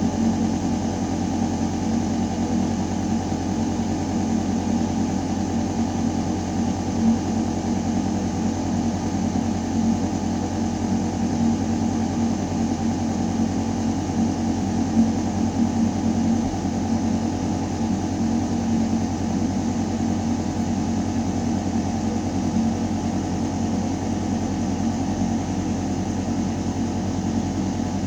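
Ventilation system running: a steady, deep mechanical hum with the rush of air moving through metal ductwork.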